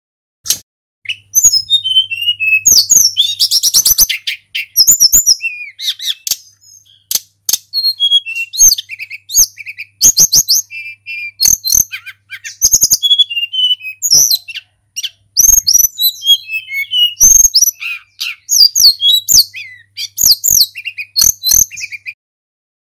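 Tledekan gunung, a Cyornis jungle flycatcher, singing almost without pause: a varied string of loud whistled phrases, falling notes and fast trills, with sharp clicks between phrases.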